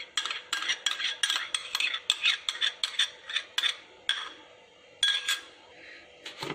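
A metal utensil clinking quickly against a bowl as something is stirred, about four clinks a second. The clinking stops a little past halfway, with a few more single clinks near the end.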